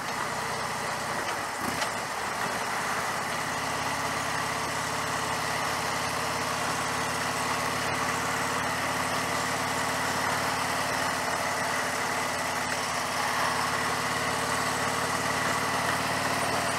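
Harley-Davidson V-twin motorcycle engine running steadily at an even road speed, heard from the rider's seat with wind and road noise over it.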